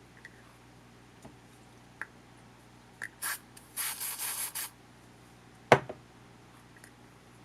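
Small parts of a camcorder being handled during disassembly: a few light clicks, then two brief spells of rubbing or scraping near the middle, and one sharp knock a little before the end, the loudest sound.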